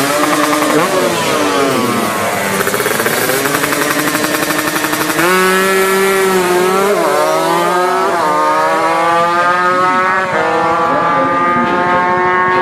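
Drag-racing motorcycle engines revving hard at the start line, pitch sweeping up and down, then launching about five seconds in and accelerating flat out, pitch climbing and dropping with each gear change.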